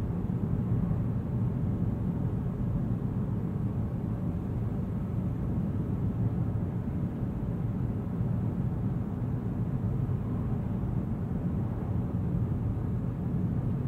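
Car driving in the rain: a steady low rumble of engine and tyres on the road, with no change in pace.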